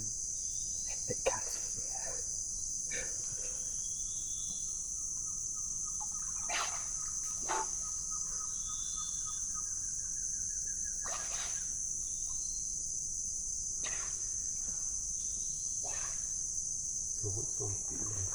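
Steady, high-pitched chorus of rainforest insects, with scattered faint clicks and knocks.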